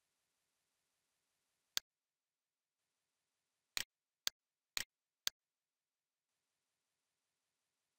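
Computer mouse clicking: a single sharp click a little under two seconds in, then four more about half a second apart, some heard as a quick double press-and-release.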